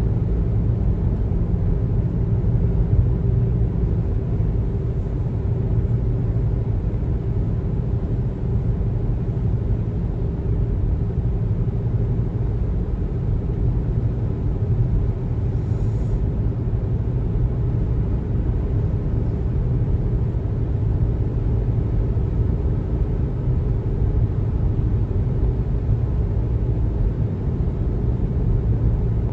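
Steady road noise of a car driving at highway speed: a constant low rumble of tyres and engine with a faint steady drone, unchanging throughout.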